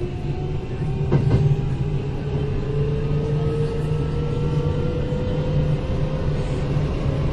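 Kintetsu 8000 series electric train running, heard from inside the car: a motor and gear whine climbs slowly and steadily in pitch as the train gathers speed, over a steady rumble of wheels on rail. One sharp knock sounds about a second in.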